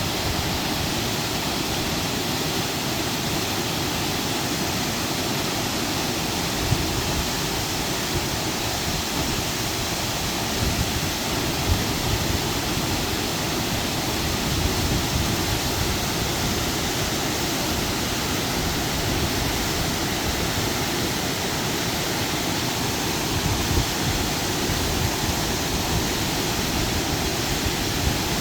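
Waterfall crashing into its pool, a steady rush of falling water with no break.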